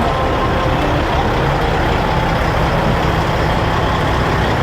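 Diesel semi truck engine running steadily, a low even drone under dense outdoor noise.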